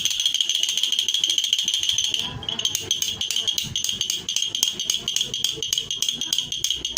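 Old-fashioned toy bell being shaken: rapid, even clicking strikes over a steady high ringing. About two seconds in, the ringing turns choppy, breaking up with the strikes.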